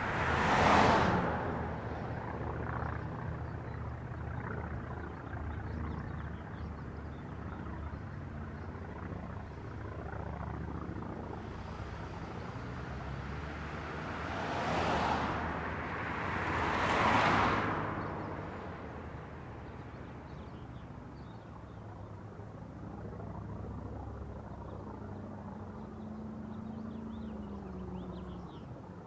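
Road traffic passing by: three vehicles swell up and fade away, one just after the start and two close together about halfway through, over a steady low rumble.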